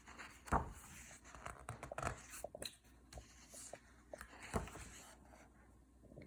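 Faint paper rustling and soft handling knocks as a picture book's page is turned, with a few louder knocks about half a second, two seconds and four and a half seconds in.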